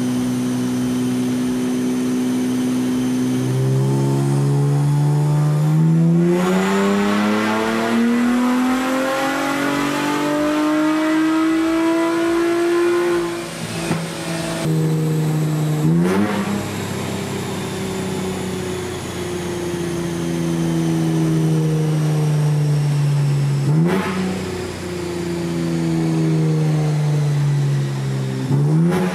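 A 2023 Nissan Z's 3.0-litre twin-turbo VR30 V6, fitted with AMS Performance cold air intakes, in a wide-open dyno pull: the engine holds steady, then the revs climb steadily for about ten seconds. It then lets off, and the revs fall away slowly, jumping back up three times as it is geared down.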